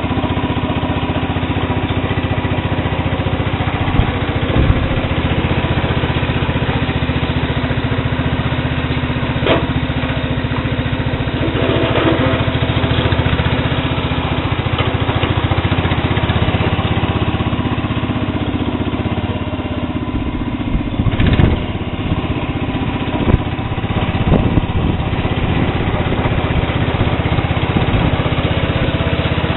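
Sears Suburban SS12 garden tractor engine running steadily, with a few short knocks and clunks, a cluster of them about 21 to 24 seconds in.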